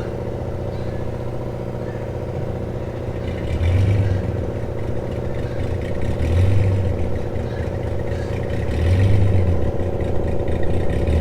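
An engine idling steadily, with a low swell in its note about every two and a half seconds.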